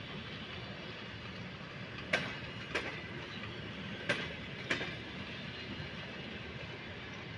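Train wheels clicking over a rail joint as railway cars roll slowly past over a steady rumble. The clicks come in pairs, once about two seconds in and again about four seconds in.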